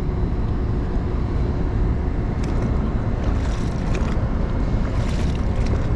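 Wind buffeting the microphone as a steady low rumble, with a few short, sharp noises over the second half.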